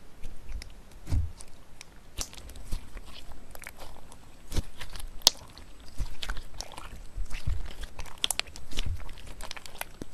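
Slime being handled, giving irregular crunchy crackles and sharp pops with a few soft low thuds.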